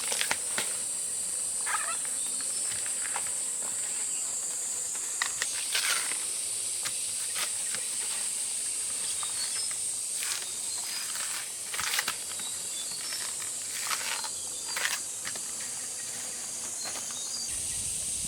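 A steady high-pitched insect drone, typical of cicadas, with a dozen or so short crackles and snaps scattered through it from plant stems and leaves being handled.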